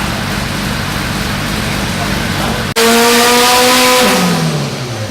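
Turbocharged car engine on a chassis dyno. It runs steadily at first, then after an abrupt break it is heard loud at high revs near the top of a pull. About a second later the revs fall away steadily as it comes off throttle.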